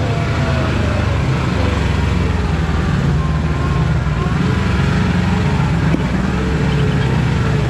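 Kawasaki KRX4 1000 side-by-side driving along a trail: a steady engine drone with a constant wash of tyre and wind noise.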